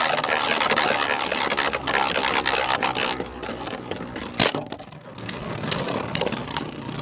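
Two 3D-printed Beyblade spinning tops whirring and scraping around a stadium after launch; the noise is loudest for the first few seconds, then eases. A sharp clash about four and a half seconds in, with a few lighter knocks near the end.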